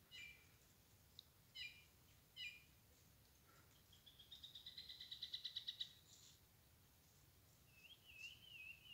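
Wild birds calling over a quiet background: three short chirps in the first few seconds, a fast trill from about four to six seconds in that grows louder, and a wavering, warbled call near the end.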